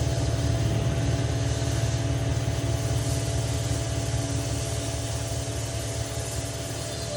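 A motor-driven machine running steadily with a low, throbbing hum and a faint steady whine above it.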